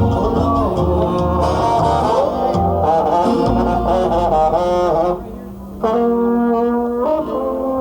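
Regional Mexican group music with brass horns carrying the melody over a low bass line, no singing. The music drops out briefly about five seconds in, then comes back with held notes.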